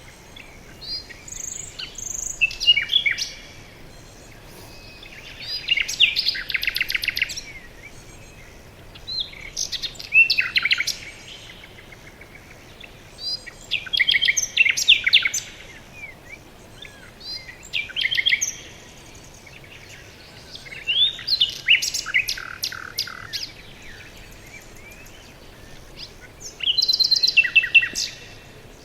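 Songbird song in a forest: short trilled phrases of rapid high notes, each about two seconds long, repeated roughly every four seconds over a faint steady hiss.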